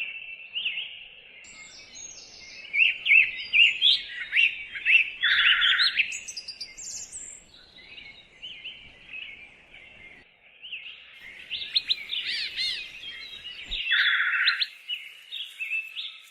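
Birds chirping and singing, with many quick overlapping chirps and warbling phrases that come thickest twice. Two lower, harsher calls stand out.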